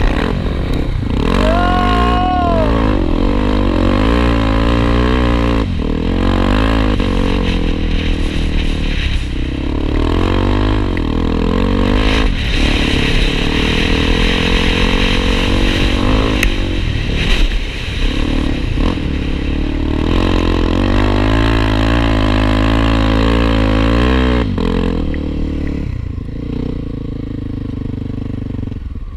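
Honda XR250 Tornado single-cylinder four-stroke dirt bike engines running close by, revving up and down as they work through the sand, the pitch rising and falling with throttle and gear changes. A short steady high tone sounds about two seconds in, and the engines ease off near the end.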